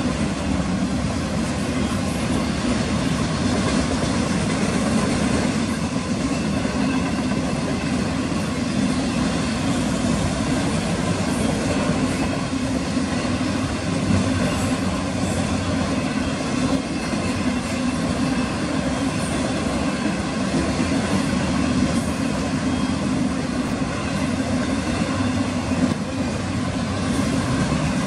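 Freight train of autorack cars rolling past at a steady speed: a continuous rumble of steel wheels on the rails, with a couple of sharper knocks about halfway through and near the end.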